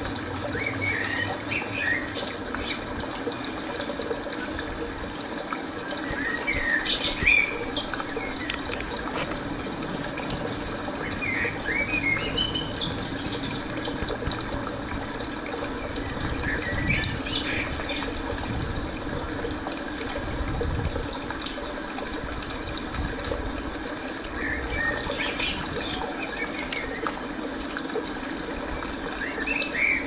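Small birds chirping in short bursts every few seconds over a steady outdoor background hiss.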